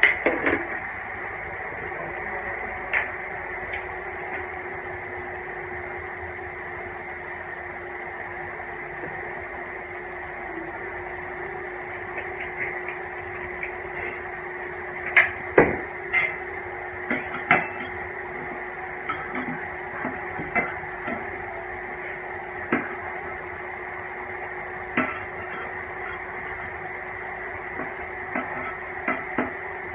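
Scattered clicks and clinks of utensils against a plate during a meal, over a steady hum.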